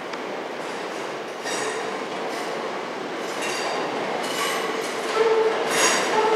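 A passenger train rolling slowly into a terminus platform, its wheels squealing on and off against the rails over a steady rumble. It grows louder, with a stronger, held squeal near the end.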